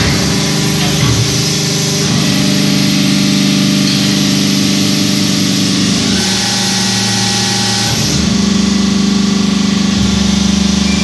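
Lego-brick press machine running under power, a loud steady mechanical hum whose tone shifts in stages about two, six and eight seconds in as the machine moves through its pressing cycle.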